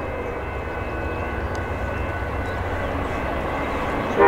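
Steady low rumble of an approaching Amtrak train's diesel locomotives, with faint high tones drifting in and out. The locomotive's horn begins a loud blast at the very end.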